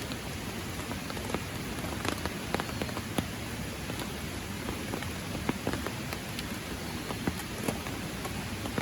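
Steady rain: a constant hiss with many single drops striking close by at irregular moments.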